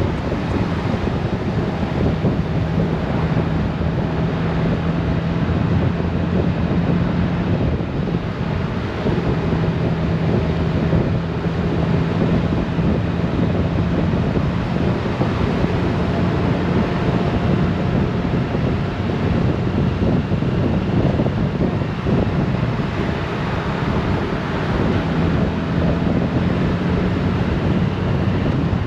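Honda GoldWing motorcycle riding at a steady speed. Wind buffets the microphone over a steady engine hum that drops out briefly now and then.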